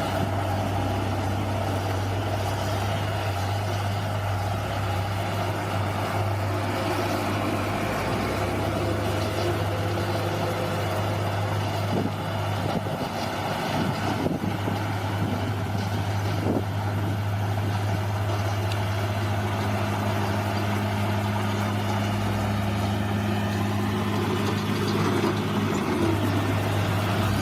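Bulldozer's diesel engine running steadily at a constant pitch, with a few brief cracks a little under halfway through.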